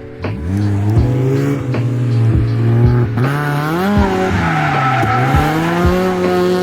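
Car engine revving up and falling back several times, with tyres squealing as the car slides on the road.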